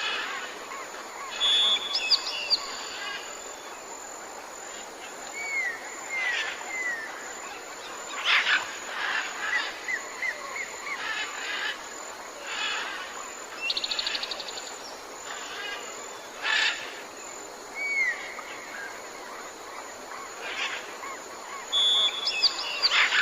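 Jungle birds calling: assorted chirps, whistles and sharp calls from several birds over a steady hiss of forest background, with a rapid trill partway through.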